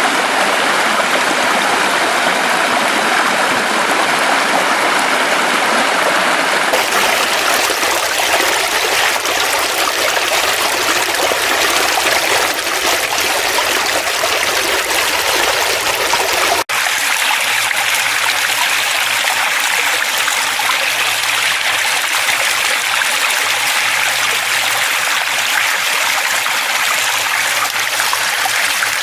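Forest stream flowing steadily, a continuous rush of running water. The sound changes abruptly about seven seconds in and drops out for an instant about seventeen seconds in.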